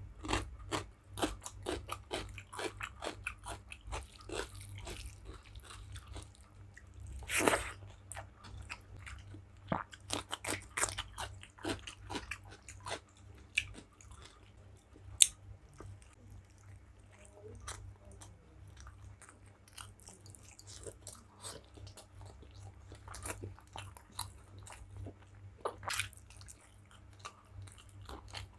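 Close-up chewing and biting of rice and curry, an irregular run of wet clicks and crunches, with a louder noise about seven and a half seconds in and a single sharp click about halfway through.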